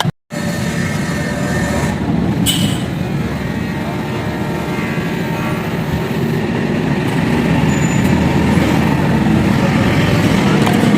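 Motorcycle engine running steadily, with a brief high squeak about two and a half seconds in.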